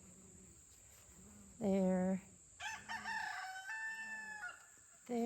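A rooster crowing once, a call of about two seconds that begins a little past the middle. A shorter flat call comes just before it, over a steady high insect trill.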